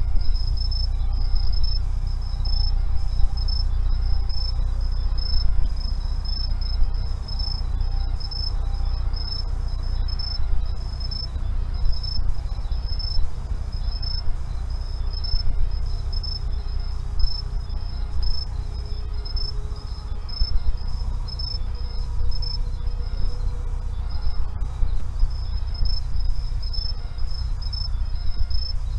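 Insects, cricket-like, calling steadily at the forest floor in a high, fast pulsing chirr, over a low, steady rumble.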